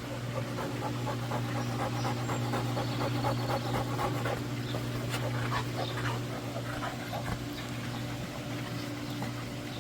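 A dog panting heavily in quick, close breaths over the steady low hum of a running pool heater.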